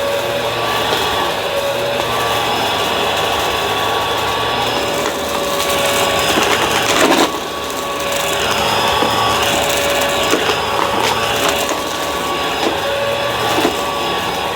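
Bissell vacuum cleaner running steadily, a constant roar with a high motor whine. It grows louder and rougher for a second or so about six seconds in, then dips briefly before settling back.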